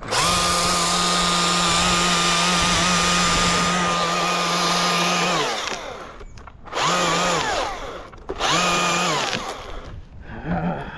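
Chainsaw run at full speed for about five and a half seconds, then winding down. Two shorter bursts of throttle follow, then a brief blip near the end.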